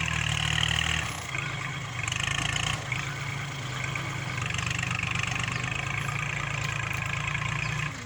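Kubota tractor's diesel engine running steadily as it pushes soil, its note dipping briefly about a second in and again near three seconds.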